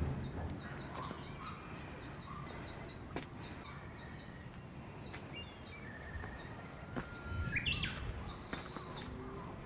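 Small birds chirping and calling among trees, with short whistled notes clustered about three-quarters of the way through, over a low outdoor rumble and a few light clicks.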